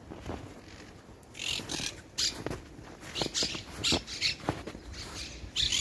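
Footsteps crunching through deep snow: a series of irregular short crunches at walking pace, starting about a second and a half in.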